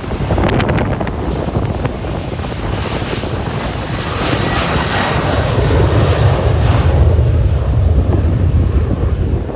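Jet airliner departing, its engine noise swelling to a loud rumble about two-thirds of the way through and easing near the end, with gusty wind buffeting the microphone.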